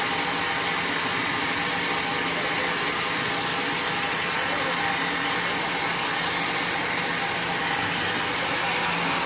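Sawmill machinery running steadily, a constant hum with an even hiss over it.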